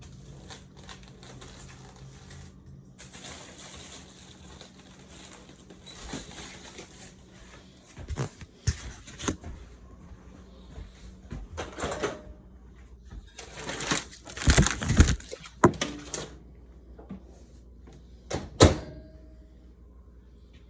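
Kitchen handling noises: a series of knocks and clatters of containers and utensils, loudest about 14 to 15 seconds in, with a sharp knock near the end, over a low steady hum in the first part.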